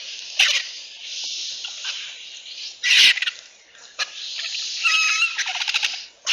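Vultures hissing in bursts, with a short squealing cry about five seconds in and a few sharp knocks.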